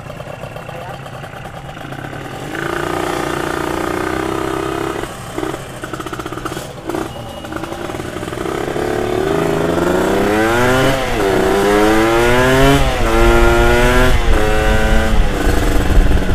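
Motorcycle engine pulling away and accelerating through the gears: after a steady note with a few brief breaks, the pitch climbs and drops back at each gear change, about three times in the second half.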